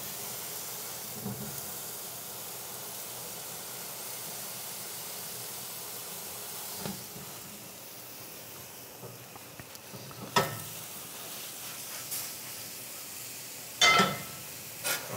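Oyster mushroom steaks searing in a dry cast iron skillet with no oil, a steady sizzle while they are pressed flat under a second skillet. A few sharp knocks come about ten seconds in and again near the end.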